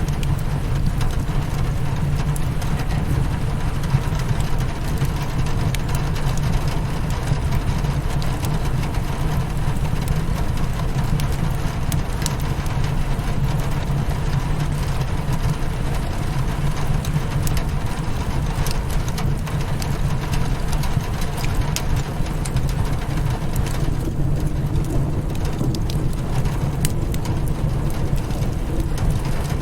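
Steady rain on a window over a deep, even low rumble, mixed with scattered sharp pops and crackles of a wood fire.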